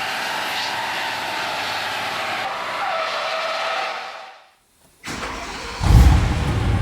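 A car driving, with steady tyre and road noise and a wavering squeal, cuts off suddenly about four seconds in. After a short gap, a car engine bursts in loudly and settles into a deep, steady running note.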